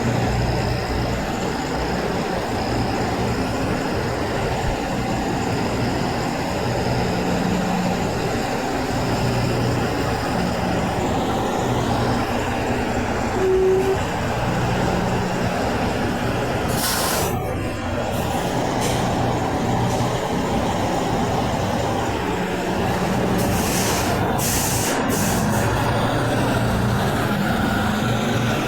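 Semi trucks' diesel engines running steadily in passing traffic, with short hisses of air brakes partway through and again several times near the end.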